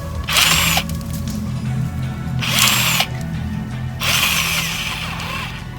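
A power drill boring holes into a wooden board, in three short bursts a second or two apart.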